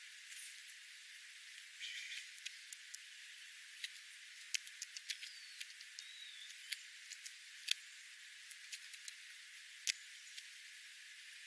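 Small birds calling: scattered sharp chip notes, a short chattering burst about two seconds in, and two brief whistled glides a little past the middle, over a faint steady hiss.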